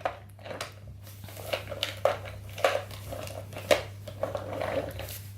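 Small plastic toy parts clicking and rustling as a toy figure is pushed and fitted into a plastic toy truck, a handful of sharp clicks among light scraping, over a faint steady hum.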